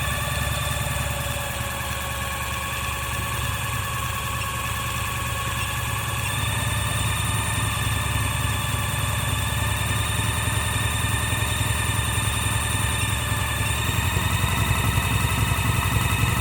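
A small electric motor running steadily with a low hum and a whine, its pitch shifting slightly about six seconds in and again near the end.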